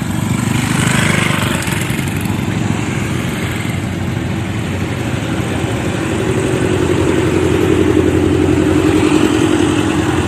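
Engine running steadily, growing louder and heavier about six seconds in.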